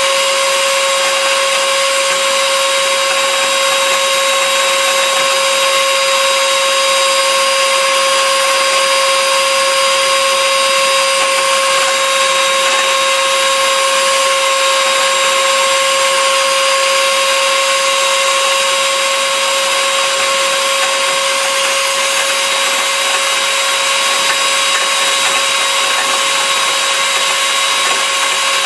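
Blendtec Total Blender's motor running continuously at high speed: a loud, even whine that holds one constant pitch.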